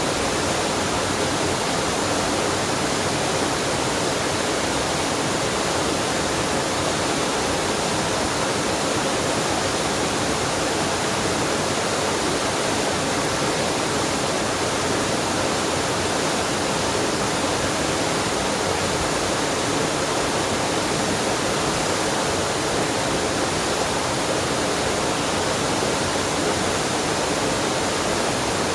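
Waterfall and mountain stream: steady rushing water.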